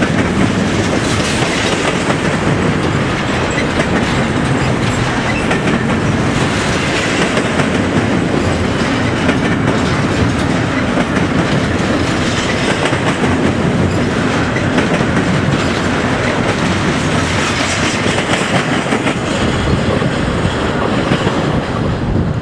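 Railroad cars rolling past, their wheels clicking steadily over the rail joints.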